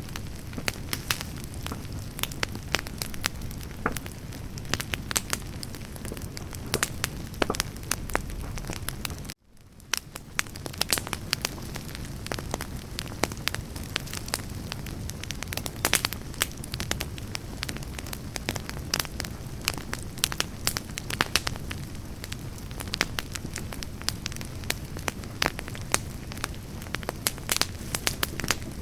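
Wood campfire burning: a steady low rush with frequent sharp crackles and pops from the burning logs. The sound cuts out for a moment about nine seconds in, then fades back in.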